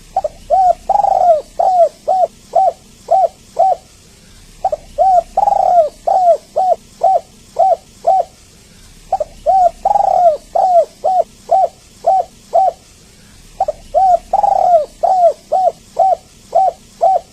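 Spotted dove cooing in repeated phrases, a new phrase about every four and a half seconds. Each phrase has one longer, louder drawn-out coo among a run of short, clipped coos. This is a lure call to set other doves calling.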